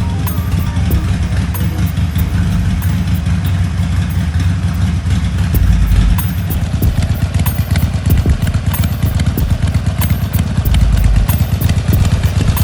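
Harley-Davidson Sportster 1200 Forty-Eight's air-cooled V-twin idling steadily through its Jekyll & Hyde exhaust, a loud, low, pulsing exhaust note.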